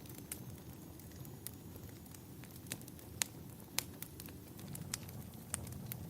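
Wood fire burning in a fireplace: a steady low rumble with sharp, irregular crackles and pops, about eight of them, the loudest a little after three seconds and near four seconds.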